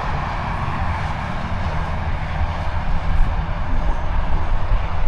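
Steady outdoor rushing noise with an uneven low rumble underneath.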